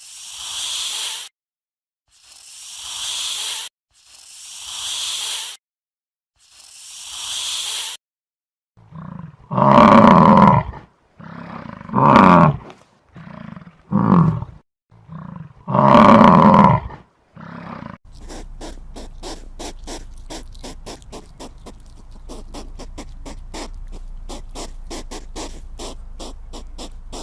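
A run of animal sounds: four long hissing breaths, each swelling, then a series of loud deep roars, then from about halfway on a fast, even rattling pulse of roughly four to five beats a second.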